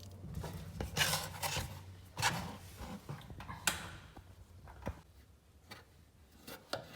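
Handling noise of the plastic emergency drain hose and its cap at the bottom of an LG washing machine: a few short rubbing and scraping sounds, the loudest about a second in and around two and three and a half seconds in, then fainter small clicks.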